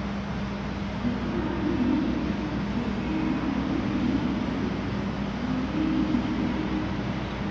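KiHa 261 series diesel limited express train's engines running: a steady low hum under a mechanical noise, with a slightly higher drone that swells and fades over a few seconds.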